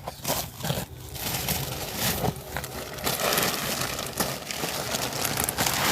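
Hands working soil and pine-mulch soil conditioner in a plastic storage tote: a dense crinkling, crackling and scraping that grows louder about halfway through.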